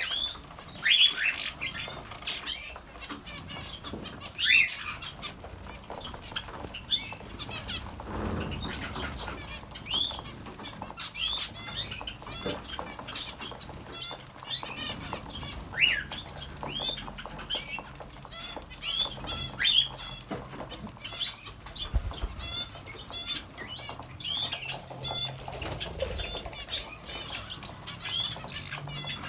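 A flock of small captive birds in an aviary chirping and calling without a break, many short downward-sweeping calls and quick trills overlapping, with some wing flapping.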